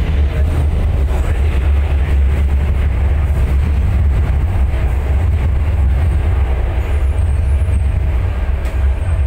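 Inside a carriage of an MTR K-stock electric train in motion: a loud, steady low rumble of the wheels and running gear, with a faint steady whine.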